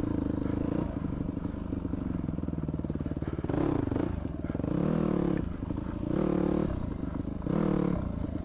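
Yamaha WR250F dirt bike's single-cylinder four-stroke engine running, then revving up and back down four times in quick bursts in the second half, about one and a half seconds apart.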